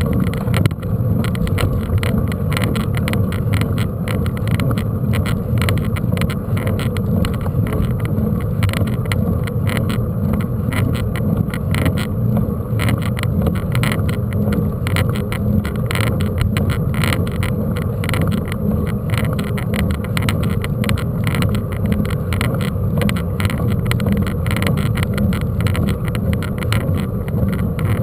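Mountain bike riding over rough dirt: a steady rumble of tyres and wind on the camera microphone, full of continuous rattling and clicking from the bike and the mount.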